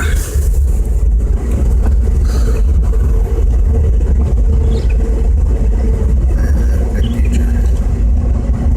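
A car driving over a snow-covered road, heard from inside the cabin: a steady low rumble of engine and tyres with a faint hum over it.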